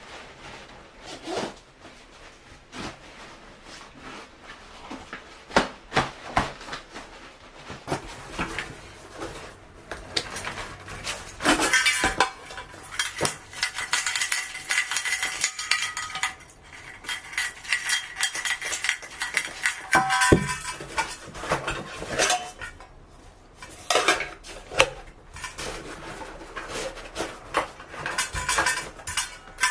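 Metal camp gear being handled: irregular clinks, knocks and clatters, some with a brief metallic ring, busiest around the middle.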